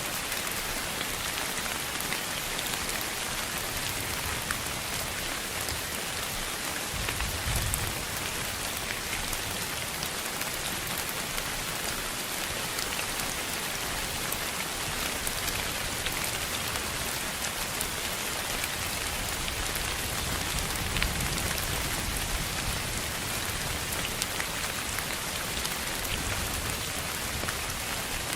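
Steady rain falling on a surface: an even hiss with scattered sharper drop ticks, and a brief low rumble swelling about 7 seconds in and again about 21 seconds in.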